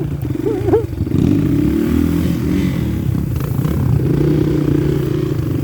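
Off-road motorcycle engine running under throttle, its pitch rising and falling for the first few seconds, then holding steadier.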